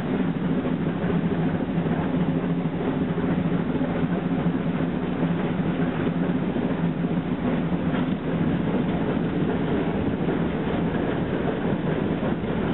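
Steam train running steadily, heard from right beside the locomotive: a constant rumble of locomotive and rolling wheels.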